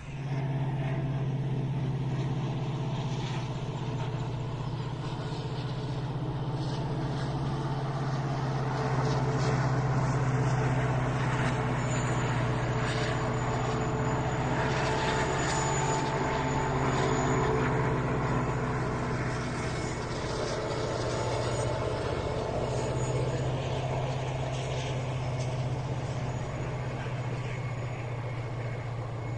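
Distant passenger train running past: a steady low rumble with an engine-like hum. It grows louder around the middle, where a run of faint clicks sounds, then eases off.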